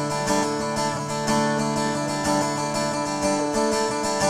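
Acoustic guitar playing an instrumental passage of steadily ringing picked chords.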